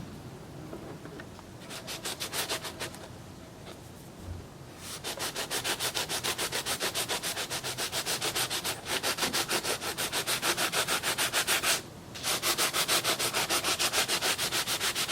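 Rapid back-and-forth hand sanding of an Oster 76 hair clipper's housing with sandpaper, about five strokes a second. A short spell of strokes comes about two seconds in, then steady sanding from about five seconds on, breaking off briefly twice.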